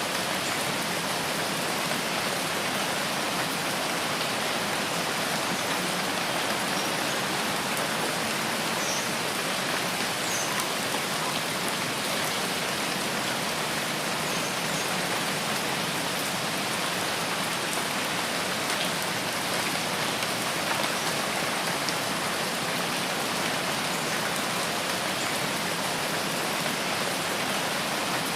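Steady rain falling on foliage in a rainforest, an even hiss with no pauses, with a few faint high chirps about nine to ten seconds in.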